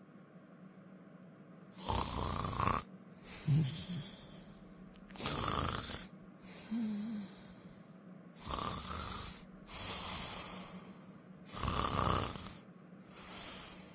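A person snoring: a loud snore about every three seconds, with softer breaths between them.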